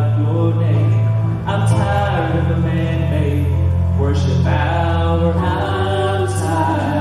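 Gospel music performed live: singing over a steady, held low accompaniment.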